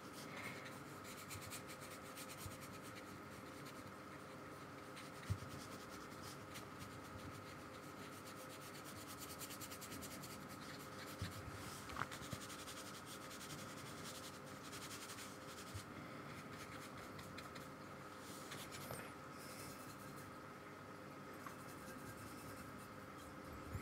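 Faint, soft scratching and rubbing of a paintbrush working gouache paint onto sketchbook paper, with a few light clicks, over a faint steady hum.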